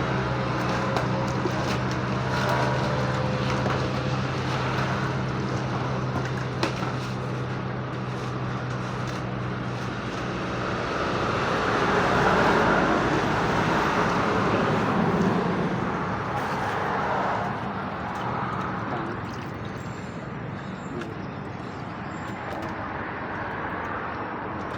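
A motor vehicle: a steady engine hum for about the first ten seconds, then a broad noise that swells to its loudest about halfway and fades away.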